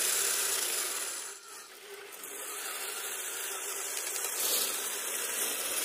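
Radio-controlled vehicle crawling over icy, crusted snow: a steady scraping rasp from its tires or tracks grinding on the ice, with the motor and drivetrain running underneath. The rasp dips briefly about a second and a half in, then picks up again.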